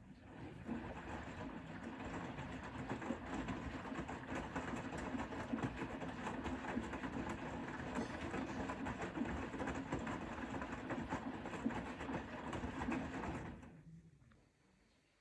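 Bosch Serie 4 front-loading washing machine turning its drum during the wash phase: a steady motor hum with laundry and water sloshing and knocking inside. It runs for about 13 seconds, then stops for the drum's pause.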